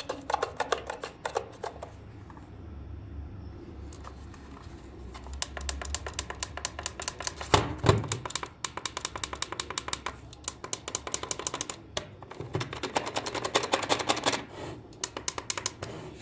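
Rapid runs of small, sharp mechanical clicks, like parts of a small toy mechanism or tool being worked, over a low steady hum; the loudest is a single knock about eight seconds in.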